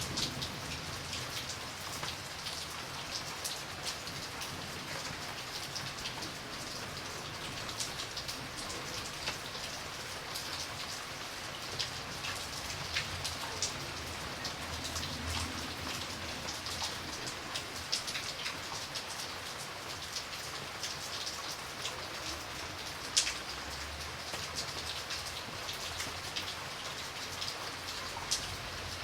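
Steady rain falling and dripping onto a surface, with many distinct drops ticking over a continuous patter and one louder drop about 23 seconds in.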